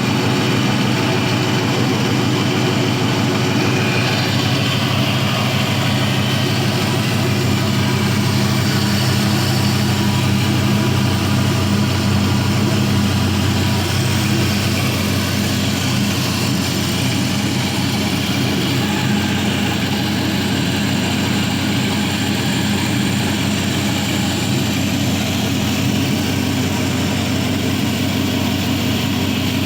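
A 4.8L LS (Gen III LR4) V8 engine idling steadily on a test stand.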